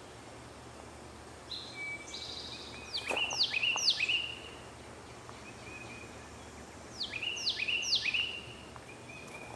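A songbird singing two phrases over steady background noise. Each phrase opens with a few level whistles and ends in three loud, quick down-slurred notes; the first phrase comes about two seconds in and the second about seven seconds in.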